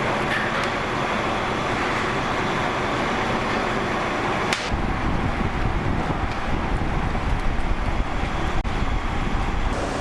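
Steady street din, like road traffic going by. About four and a half seconds in there is a sharp click, and the sound changes abruptly to a heavier low rumble.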